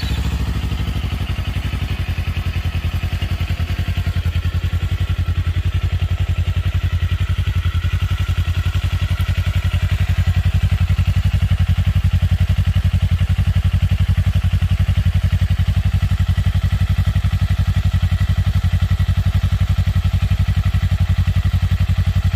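A new Kawasaki Eliminator 400's 398 cc parallel-twin engine idling steadily just after start-up, with an even, low exhaust beat.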